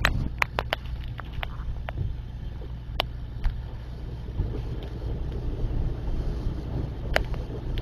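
Road and engine noise inside a moving car: a steady low rumble with scattered sharp ticks and clicks.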